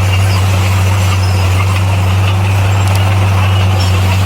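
Bulldozer's diesel engine running steadily under load, a constant low drone.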